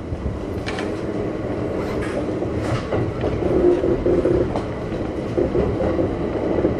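Kintetsu 1430 series electric train running, heard from inside the car: a steady rumble of wheels on rail with a few sharp clicks as the wheels pass over rail joints.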